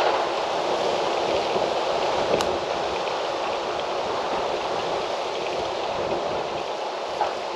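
Wind blowing steadily, a rushing noise, with one faint click about two and a half seconds in.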